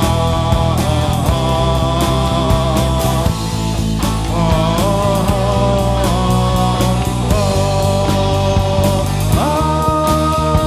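Live rock band playing an instrumental passage: a sustained melodic lead line with gliding notes over bass and a steady drum beat.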